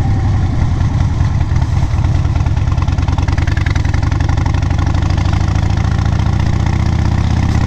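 Vehicle engine idling steadily, an even low rumble.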